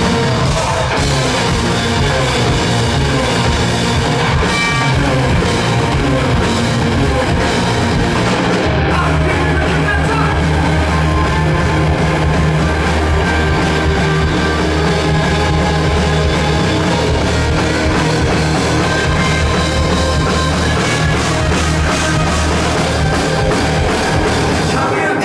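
Rock band playing live in a mostly instrumental stretch with guitar and drum kit. About nine seconds in, the bass and drums come in heavier and fuller.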